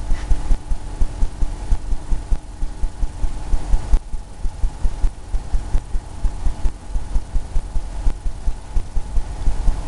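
A paintbrush dabbing paint onto a canvas on an easel, heard as a quick, irregular run of dull low thuds, several a second.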